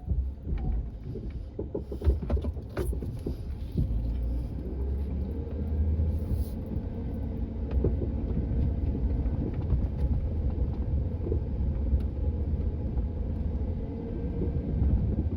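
A vehicle engine running steadily with a deep low rumble, with a few knocks and clicks in the first few seconds.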